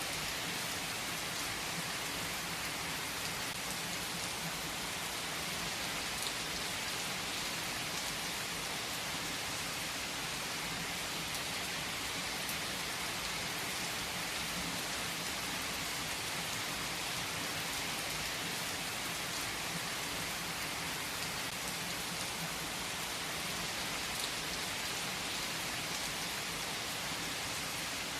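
Steady rain falling: an even hiss with a few sharper drop ticks standing out now and then.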